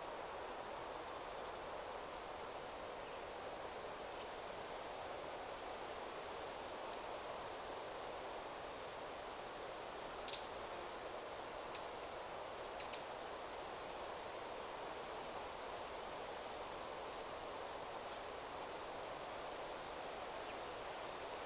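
Wind rustling steadily through forest trees, with short, very high-pitched bird chirps scattered throughout, some in quick little clusters.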